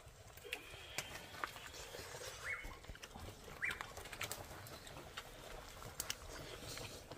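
Quiet outdoor ambience with scattered small clicks and two short bird chirps, about two and a half and three and a half seconds in.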